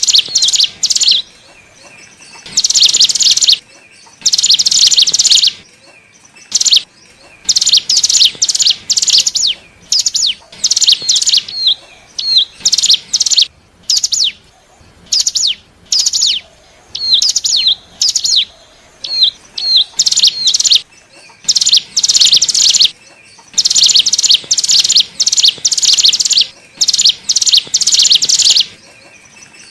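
Ciblek gunung (cigun), a prinia, singing its lure song: repeated bursts of rapid, high, buzzy trills about a second long, broken by short hooked chip notes and brief pauses.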